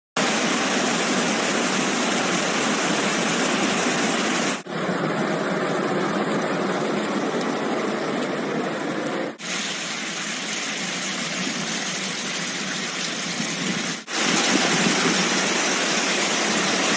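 Floodwater rushing through streets, a steady loud flow of water heard in four short clips joined by abrupt cuts about every five seconds.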